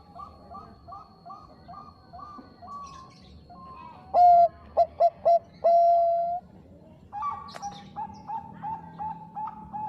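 Zebra doves (Bangkok-strain perkutut) cooing: a soft run of short repeated coos, then about four seconds in a loud phrase of a few short notes ending in a long held coo, which is the loudest part. From about seven seconds a fast, even string of short coos follows, two or three a second.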